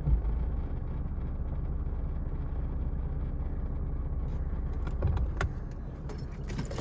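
Mercedes-Benz W124 engine idling with the automatic transmission in Drive: a steady low drone with a low thump at the start and another about five seconds in. The rattling in Drive is taken for a defective engine mount. Sharp clicks and jingling near the end.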